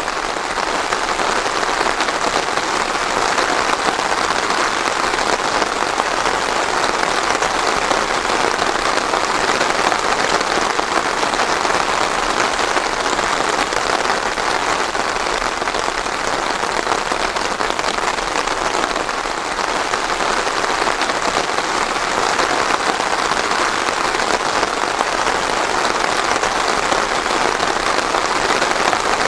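Steady rainfall pattering on surfaces, an even hiss with no thunder.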